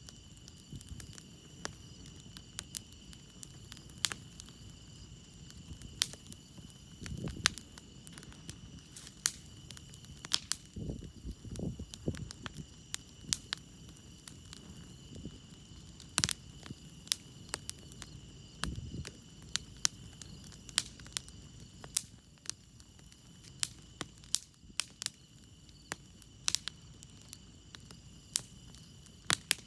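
Campfire crackling with frequent sharp, irregular pops, over a steady high chorus of crickets. A few short low rumbles come and go around a third of the way in and again past the middle.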